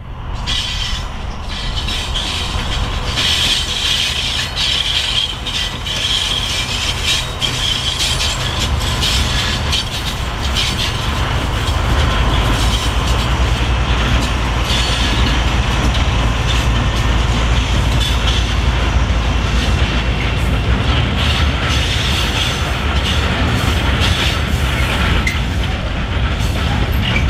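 Two SNCF BB 67400-family diesel locomotives hauling a loaded steel-coil freight train past close by, a steady low engine and rail rumble with wheel clatter. A high wheel squeal rises and fades at times.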